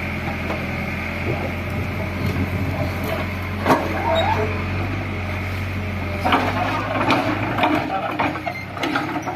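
JCB 3DX backhoe loader's diesel engine running steadily, with a few sharp knocks over it; the engine's low drone drops off about two-thirds of the way through.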